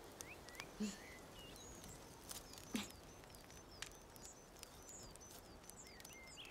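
Small birds chirping and twittering in quick, high, rapidly repeated calls over a quiet outdoor background, with two brief louder low sounds about one and three seconds in.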